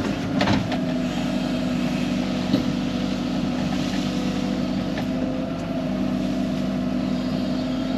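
Excavator's diesel engine running steadily while it digs, with a short knock about half a second in.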